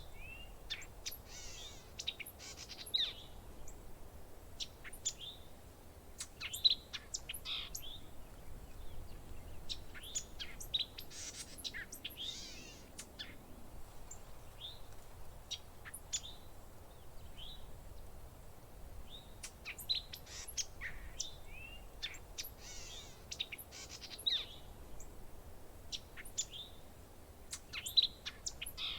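Birds chirping and calling, with short sharp chirps and quick rising whistles coming in clusters every few seconds.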